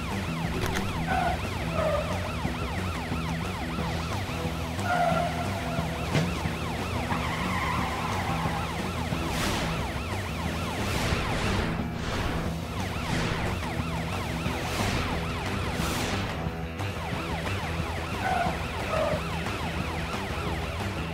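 Cartoon police car siren wailing over background music, with a few whooshing sweeps near the middle as vehicles rush past.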